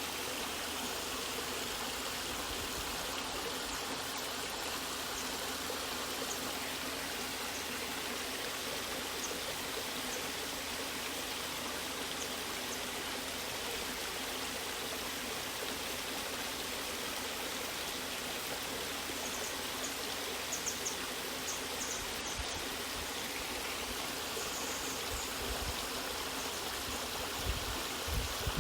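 Waterfall: a steady, unbroken rush of falling water, with a few soft low thumps near the end.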